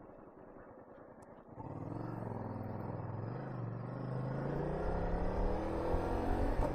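Honda VTR250's V-twin engine: quiet at first, then about a second and a half in its note comes up and, after a brief dip, climbs steadily in pitch as the bike accelerates. Wind noise grows with it.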